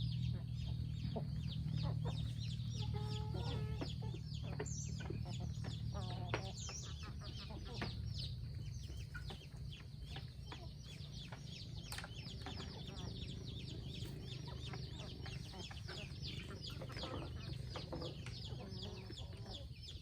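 Free-range chickens clucking, with a few short calls in the first half and a dense patter of small ticks throughout, over a steady low hum.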